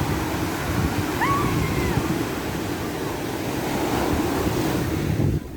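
Ocean surf washing steadily, with wind buffeting the microphone. About a second in, a brief pitched call rises and falls over the surf. Just before the end the hiss drops off abruptly.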